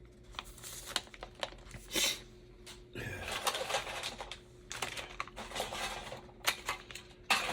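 Rummaging through small parts and packaging on a workbench: scattered light clicks and rattles of small pieces, with stretches of rustling.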